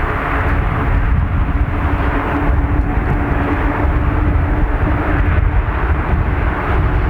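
Airbus A320's IAE V2500 jet engines running in a steady roar with a heavy low rumble.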